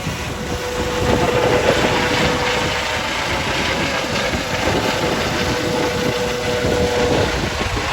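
Medical helicopter running close by, a dense rush of rotor and engine noise with a steady whine through it, its rotor downwash blowing hard on the microphone.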